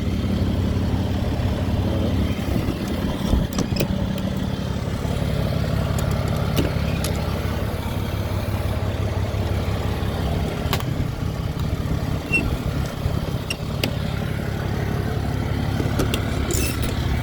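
2011 Ram 5500's 6.7-litre Cummins turbo-diesel idling steadily, with a few faint clicks over the low rumble.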